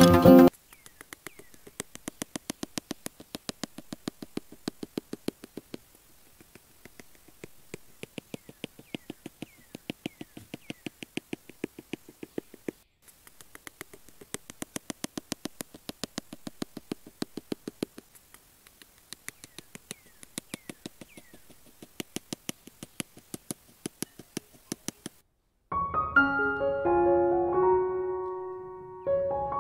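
Rapid, even clicking in bursts of a second or two with short pauses between. Piano music comes in near the end.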